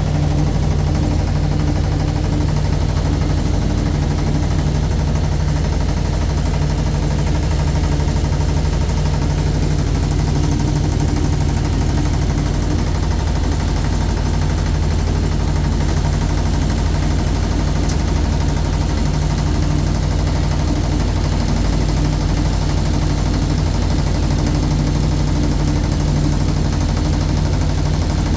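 Motorboat engine running steadily at an even, unchanging speed, heard from aboard the boat.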